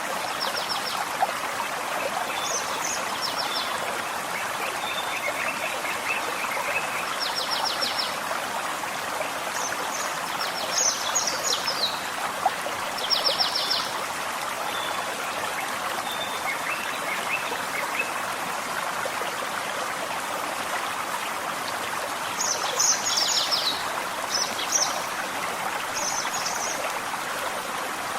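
Gentle forest stream trickling steadily, with a small songbird singing short, high phrases of rapid repeated notes over it several times, pausing for a while in the middle.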